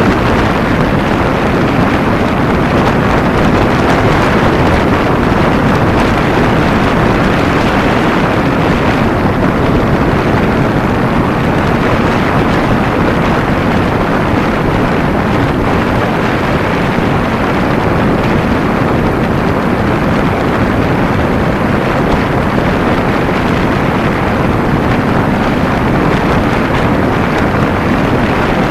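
Steady, loud wind rush over the camera's microphone while riding at speed on a Kawasaki Ninja 250, mixed with the parallel-twin engine and road noise.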